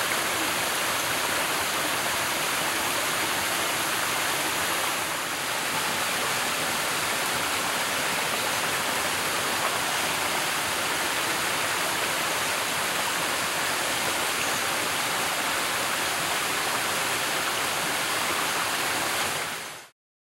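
Waterfall: falling water rushing with a steady, even sound, fading out quickly near the end.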